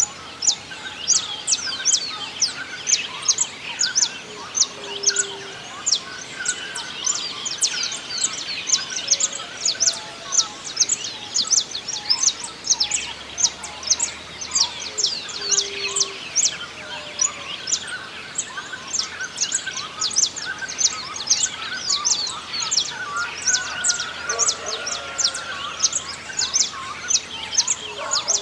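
A dawn chorus of many small birds singing at once: a constant stream of quick, high chirps, with lower warbling songs mixed in and an occasional short low note.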